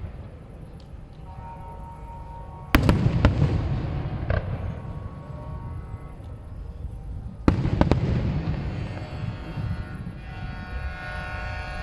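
Fireworks display: aerial shells bursting with sharp bangs, the biggest about three seconds in and again about seven and a half seconds in, each followed by a long low rumble as it echoes away.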